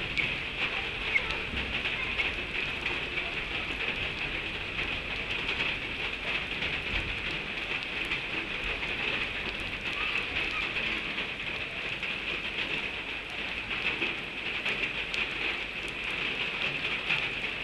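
Steady rain falling, an even hiss of drops that runs without a break.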